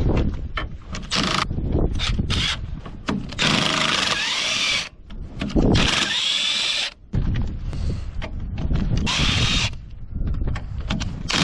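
A handheld power tool running in three bursts of a second or more each, its motor whine rising and falling as it spins up and slows down. Steady wind buffets the microphone throughout.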